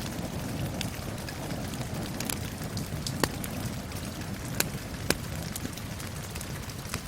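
Steady rain with a crackling wood fire: a constant rush of rain under scattered sharp pops and snaps, a few louder pops standing out about three, four and a half and five seconds in.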